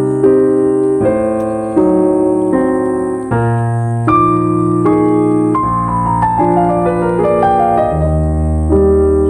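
Background piano music: slow held chords changing about once a second, with a run of falling notes through the middle.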